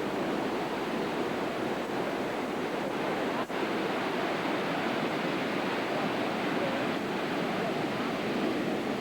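Hurricane-driven surf breaking along the shore, mixed with storm wind on the microphone: a steady, dense rushing noise, with a momentary dropout about three and a half seconds in.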